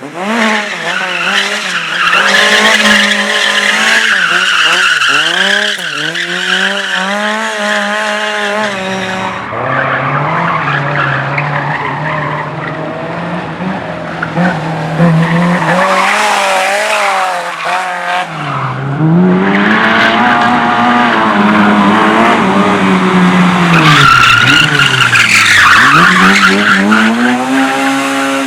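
Race car engines revving hard through an autoslalom course, the engine note climbing and dropping again and again with lifts and gear changes. Tyre squeal joins in near the end.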